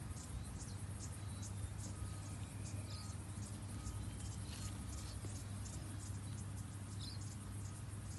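Insects chirping in short, high-pitched pulses a few times a second, over a steady low hum.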